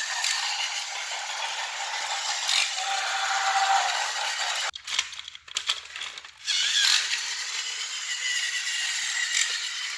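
Tomy Plarail C62 toy locomotive running on plastic track, its small battery motor and gears whirring with a steady rattle. The sound drops away sharply for about two seconds midway, then returns.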